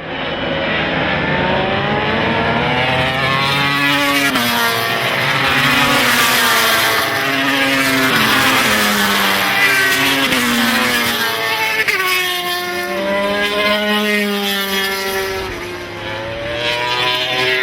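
Several 990cc four-stroke MotoGP race bikes passing at speed, their engine notes overlapping, climbing through the gears and falling away as they go by, with a short lull near the end.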